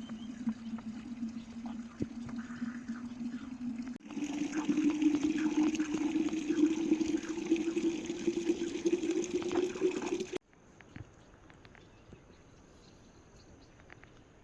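Running water, a steady splashing hiss with a low hum-like tone in it, switching suddenly to a louder, slightly higher version about four seconds in, then cutting off near the ten-second mark to a quiet background with faint ticks.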